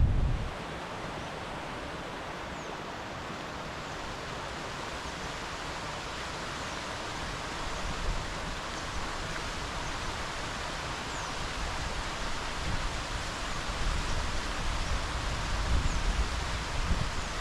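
Steady rushing hiss of strong wind, with low gusts buffeting the microphone that grow stronger toward the end.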